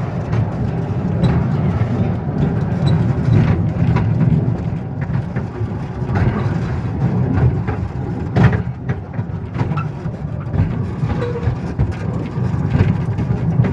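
Narrow-gauge railway train running: a steady low rumble with scattered clicks and one sharp knock about eight and a half seconds in.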